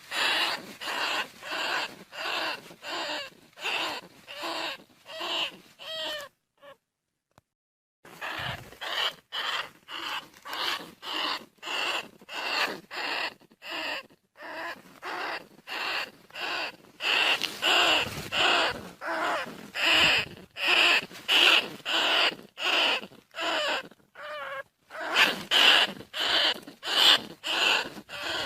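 Bandicoot rat calls in a lure recording: short, rasping squeaks repeated about twice a second. The calls break off for about two seconds some six seconds in, then resume and grow louder toward the end.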